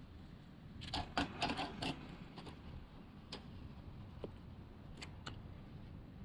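Light clicks and rattles of small hard objects being handled: a quick cluster about a second in, then a few scattered single ticks.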